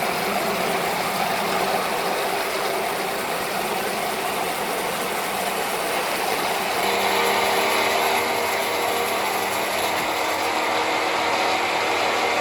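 Machinery running with a dense, continuous rattle. About seven seconds in, a few steady humming tones join it.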